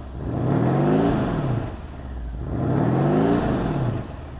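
Mercedes-AMG E63 (W212) 5.5-litre twin-turbo V8 being revved twice while stationary, heard from inside the car. Each rev climbs quickly to a peak and drops back to idle, the first about a second in and the second about three seconds in.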